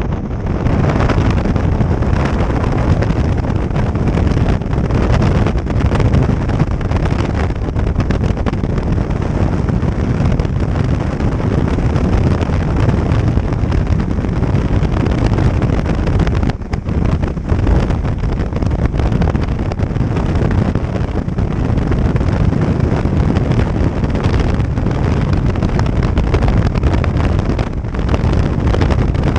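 Jet ski running underway, its engine and the rush of water mixed with heavy wind buffeting on the microphone.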